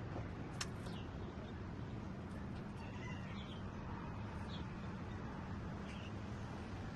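A few short, faint bird chirps scattered over a steady low background hum.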